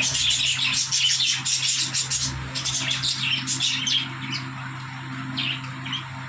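Many budgerigars chirping and chattering at once, dense and rapid for about four seconds, then thinning to scattered chirps. A steady low hum runs underneath.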